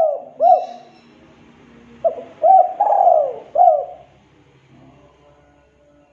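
Spotted dove (tekukur) cooing: two coos at the very start, then about two seconds in a four-note phrase of coos with one longer falling note in the middle. The last couple of seconds are faint.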